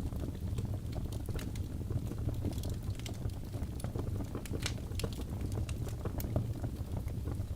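Birch logs burning in a fireplace: a steady low rumble of flame with frequent irregular small crackles and pops.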